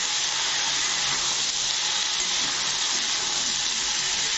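Wet brinjal pieces, just lifted from soaking water, sizzling steadily in hot oil in a kadai.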